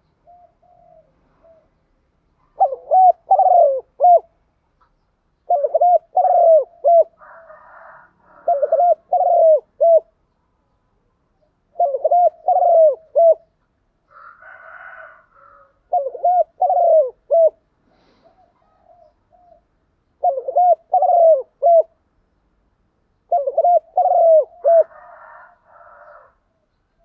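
Spotted dove (cu gáy) cooing: about seven phrases of three or four curved coo notes each, repeated every three to four seconds. Fainter scratchy sounds come between some of the phrases.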